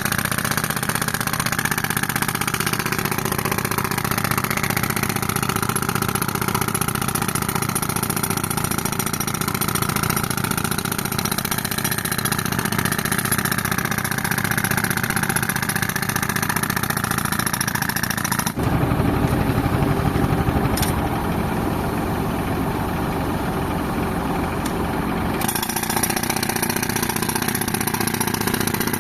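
Tractor engine running steadily to drive an air compressor, with the harsh noise of a pneumatic breaker hammering reinforced concrete on top. The breaker stops suddenly about two-thirds of the way through, leaving only the engine for several seconds, then starts again near the end.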